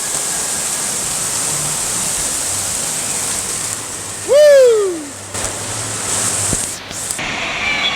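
Steady rush of water, with one loud shout about four seconds in that rises and then falls in pitch.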